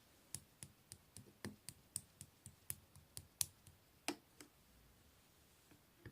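Slime being worked by hand, giving a run of sharp little clicks and pops, about three a second, that stop about four and a half seconds in.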